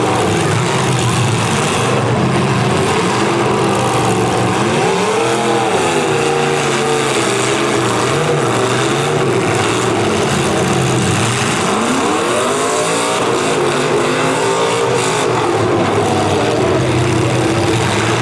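V8 demolition derby car engines running and revving up and down, with the pitch swelling about four seconds in and again about twelve seconds in.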